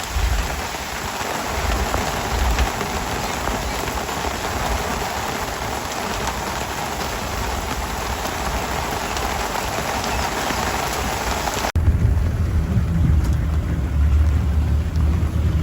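Steady hiss of rain falling. It cuts off abruptly near the end and gives way to a low rumble of wind buffeting the microphone.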